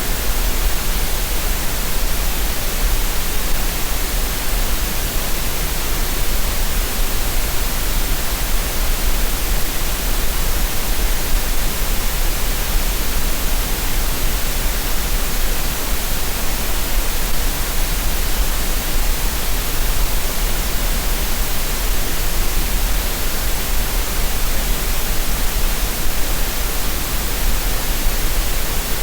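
Steady synthetic green noise: an even, unchanging hiss with a deep low rumble underneath.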